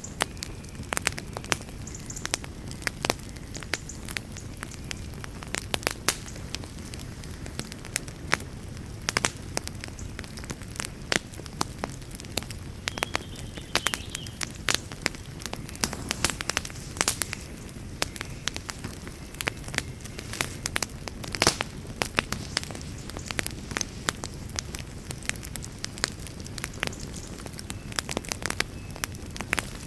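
Wood campfire crackling: many sharp pops and snaps, several a second, over a steady low rush.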